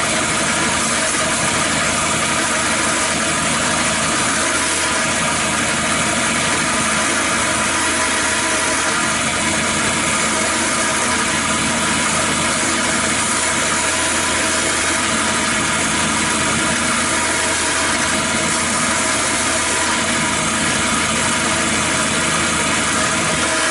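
A motor running steadily at one even speed, with a hiss and a low hum; it starts and stops abruptly.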